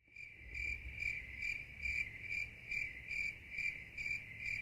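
Insect chirping: a steady high trill that swells in even pulses a little over twice a second.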